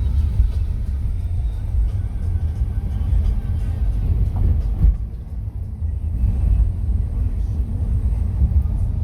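Wind buffeting the microphone: a loud, gusty low rumble that eases for a moment about halfway through.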